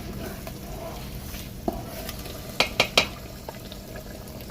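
Stirring in a cooking pot of jollof rice, with a few sharp knocks of the spoon against the pot. The loudest knocks come in a quick run of three a little past halfway.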